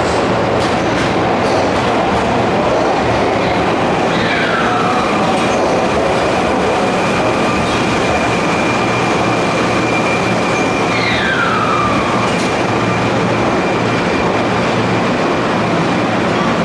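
Keihan Main Line electric train moving along the station platform: a loud, steady running noise, with a thin whine heard through the middle and two high squeals, each sliding down in pitch, about four and eleven seconds in.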